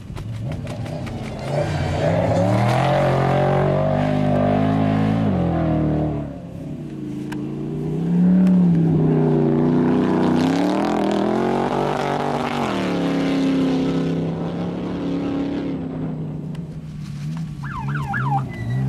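Off-road race vehicles going by under hard throttle, the engine pitch rising and falling with throttle and gear changes. One loud pass comes about two to six seconds in, and another from about eight seconds that fades out after about sixteen seconds.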